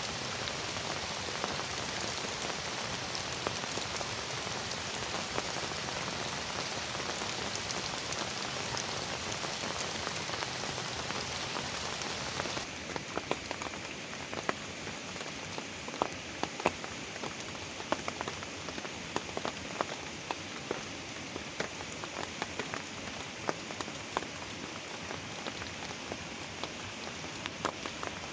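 Heavy rain falling steadily. About 13 seconds in the sound changes abruptly to slightly quieter rain with many loud separate drops striking a surface close by.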